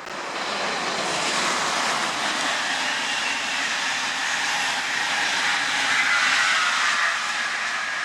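A train passing on the track: a steady rushing of wheels on rails that comes in suddenly at the start and holds, with a faint high ringing tone in the second half.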